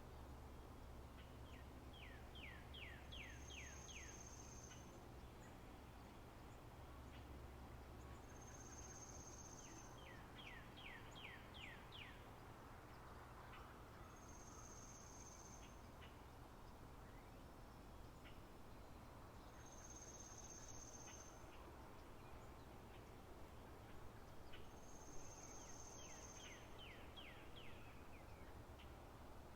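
Faint spring birdsong: a thin, high whistle about a second long repeats every five or six seconds, and three times a bird sings a quick run of six or seven down-slurred notes. A low steady hum lies underneath.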